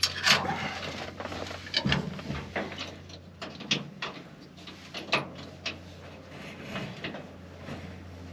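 Irregular clicks and knocks, a few seconds apart, over a steady low hum.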